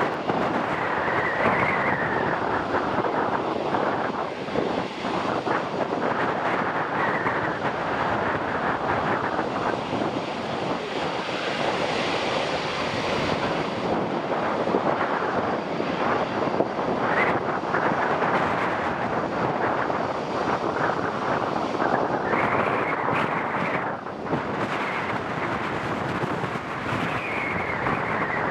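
Jet airliner engines running, a loud steady rushing noise with a high whine that rises and falls now and then.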